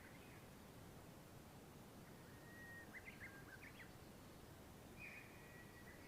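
Faint birdsong over a low steady hiss: thin whistled calls, one about two seconds in that breaks into a few short quick notes, and another held note near the end.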